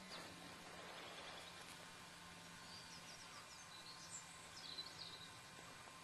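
Faint open-air quiet with a small bird twittering high and quick in two short phrases, one about halfway through and one a little before the end.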